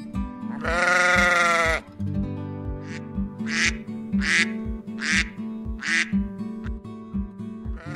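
Background music with a steady beat, and a sheep bleat about a second in, lasting about a second.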